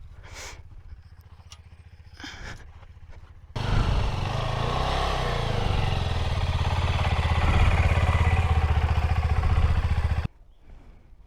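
A motorcycle engine running as the bike is ridden out at low speed, with some rise and fall in revs. It starts suddenly about three and a half seconds in and cuts off suddenly near the end.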